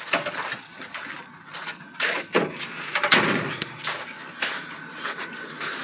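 Scuffling, rustling and a few knocks and thumps from a dog scrambling up into a pickup truck, with the strongest thumps around two and three seconds in.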